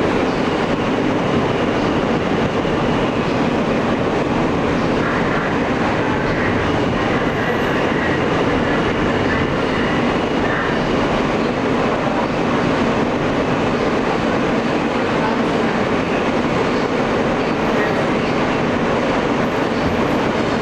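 Interior running noise of an Alstom R160A subway car in motion: a steady rumble of wheels on rail with some clatter over the track.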